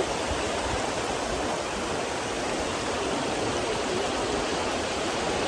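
Bridal Veil Falls, a 55 m plunge waterfall, rushing steadily into its pool, heard from the base of the falls.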